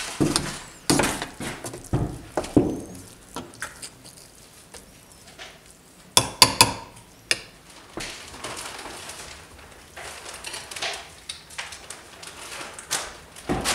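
Metal spoon stirring and scooping food in a metal pot, scraping and clinking against the pot, with a quick run of sharp clinks about six seconds in.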